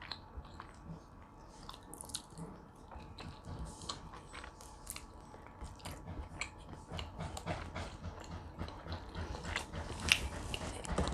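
A person biting and chewing food close to the microphone: irregular wet smacks and small crunchy clicks of eating.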